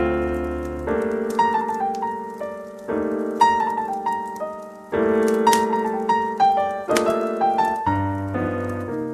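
Slow, relaxed jazz piano music: chords struck every second or two and left to ring, with a melody of single notes above them.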